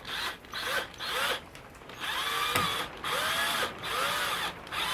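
A cheap power drill driving a screw into wood in five short trigger bursts. The motor's pitch rises and falls with each burst, and there is one sharp click near the middle.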